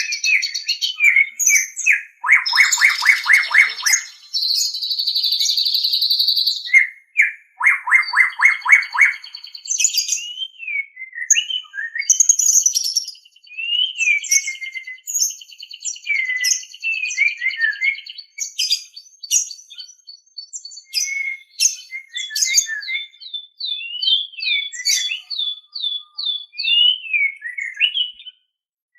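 White-rumped shama (murai batu) singing a long, varied song of clear whistles and slurred notes mixed with harsh buzzy bursts. Two rapid rattling trills come in the first ten seconds, and a run of quick repeated down-slurred notes comes near the end.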